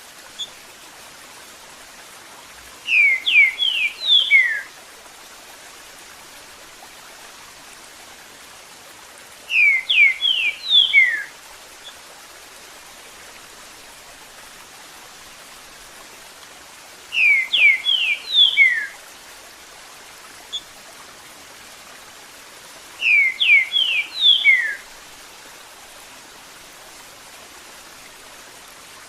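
Green-winged saltator (trinca-ferro) singing its "eu sou terrível" song: four short phrases of quick whistled notes, one about every six to seven seconds. Running water makes a steady sound underneath.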